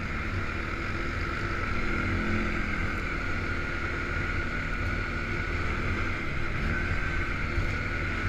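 An engine running steadily at a constant speed, a continuous drone that holds without revving up or down.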